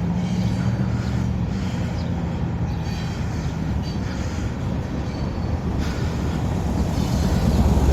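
A train rolling past with a steady low drone, growing louder near the end.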